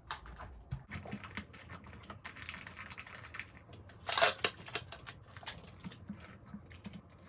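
Hands handling small packaged items: scattered light clicks and crinkles of plastic packaging, with one louder rustle about four seconds in.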